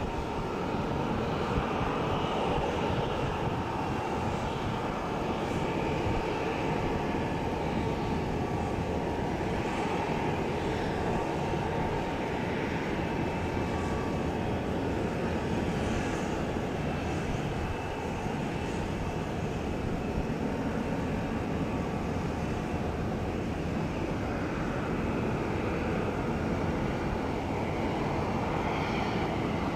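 Jet airliner engines running with a steady, even noise and a faint steady whine above it, unchanging throughout.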